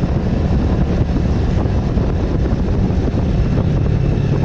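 Wind rushing over the microphone on a moving motorcycle, over the steady low drone of a Bajaj Avenger's single-cylinder engine at riding speed.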